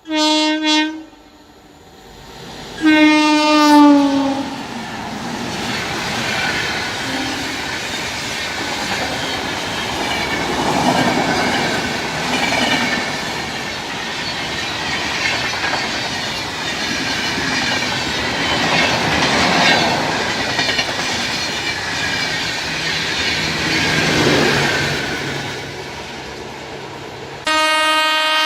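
Indian Railways locomotive horn sounds a short blast, then a second blast that drops in pitch as the locomotive passes. A long, steady rush and clickety-clack of a train running through at speed follows, and another horn blast comes near the end.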